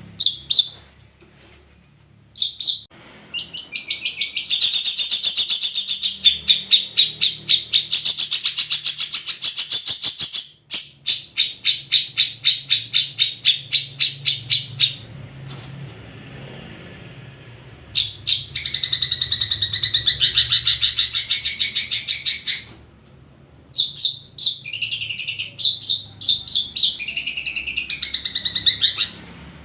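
Long-tailed shrike (cendet) singing: loud bursts of rapid, high chattering notes, including a run of about three evenly spaced notes a second, broken by short pauses.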